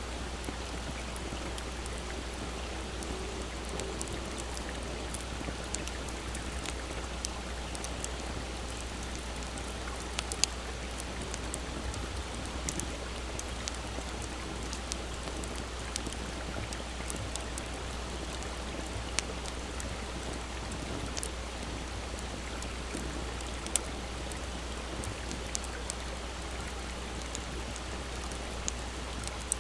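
Wood fire crackling with scattered sharp pops, the loudest three about ten, nineteen and twenty-four seconds in, over the steady rush of a small stream.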